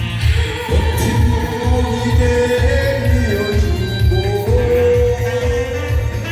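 A song with a singer holding long, slightly wavering notes over accompaniment with a steady, pulsing bass beat.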